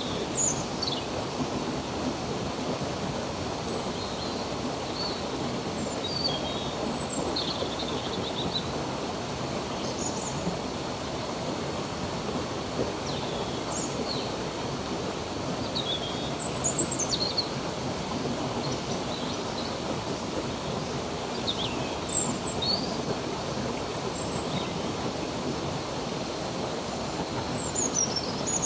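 Stream water running steadily, with small birds chirping every second or two: short high calls, some sweeping quickly down in pitch.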